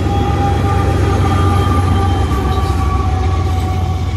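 BNSF diesel-electric locomotive and loaded coal hopper cars passing close: a steady low engine rumble and the noise of steel wheels on the rails, with thin steady high tones over it that fade out near the end.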